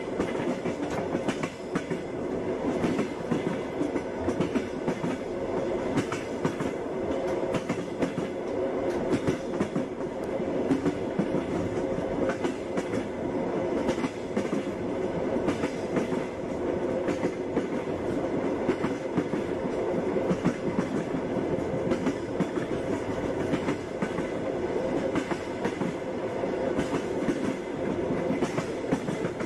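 Passenger train running on the rails, with a continuous rumble and frequent sharp clicks and knocks of the wheels over the rail joints.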